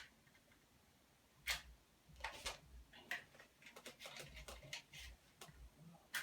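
Light clicks and crackles as kindling is lit in a wood stove: a sharp click about a second and a half in, then a run of quick ticks and crackles.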